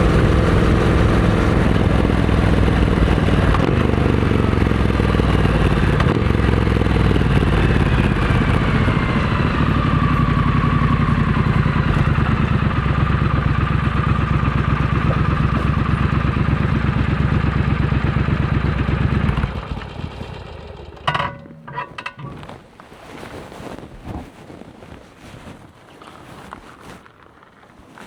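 Triumph Scrambler 900 parallel-twin engine with a Vance & Hines exhaust running steadily, its pitch easing down in the first few seconds. The engine is switched off about twenty seconds in, followed by a few sharp clicks and faint wind.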